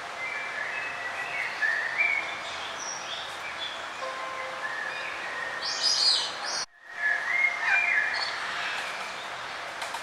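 Several songbirds singing and chirping in short phrases over a steady background hiss, with a brief break in all sound about two-thirds of the way through.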